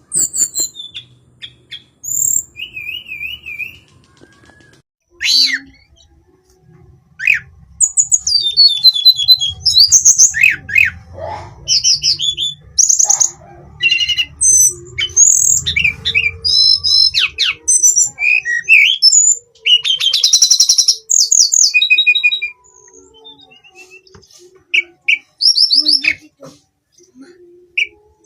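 Hill blue flycatcher singing: a varied string of high whistled phrases, quick trills and chirps. The song is sparse at first, comes thick and loud in the middle, and thins out again near the end.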